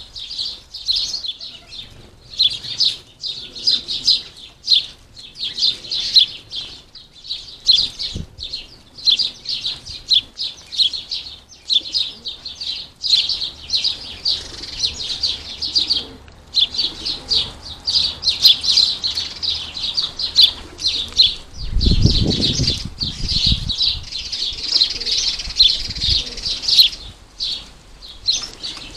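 House sparrows and goldfinches chirping continuously in quick, dense runs. About 22 seconds in there is a short, low flutter of wings close by.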